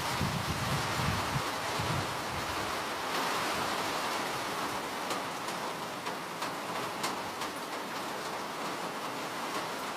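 Steady rain falling, an even hiss with scattered sharper drop ticks, and a low rumble during the first couple of seconds.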